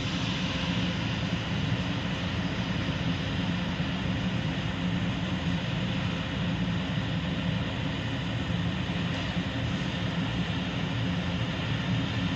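Steady running noise of an electric train, with a low hum under an even rush of noise that neither rises nor falls.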